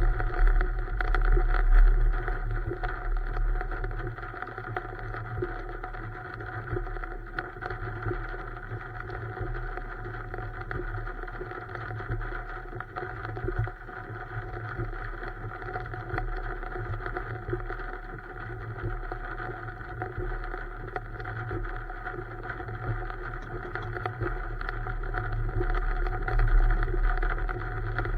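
A steady motor drone, louder for the first couple of seconds and again near the end.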